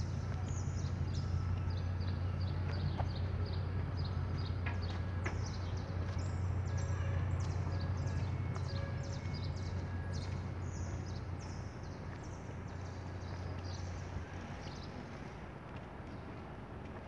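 Small birds chirping over and over in short, high-pitched notes, several a second, against a steady low rumble of street ambience that eases off in the last few seconds.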